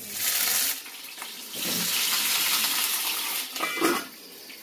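Kitchen tap running into a sink in two spells, a short one at the start and a longer one about a second and a half in.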